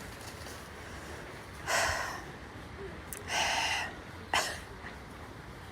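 Three short, breathy, cough-like bursts from a person: two longer ones about a second and a half apart, then a brief sharp one.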